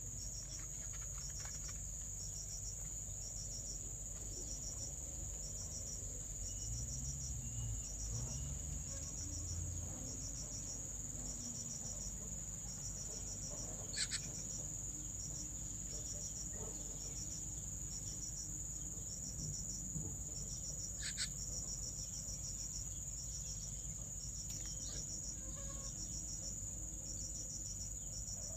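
Crickets chirping: a steady high trill with a second call in short pulse groups about once a second. There are two brief sharp clicks, one near the middle and one about two-thirds of the way through.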